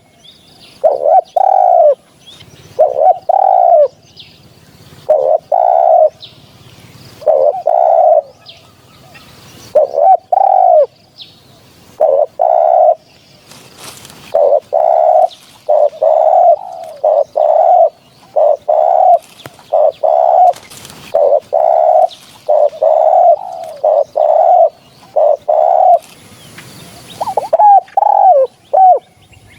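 Spotted dove cooing over and over, loud coo notes about one a second, bunching into quicker notes near the end; a lure recording for calling in spotted doves. Faint chirps of other birds sound between the coos.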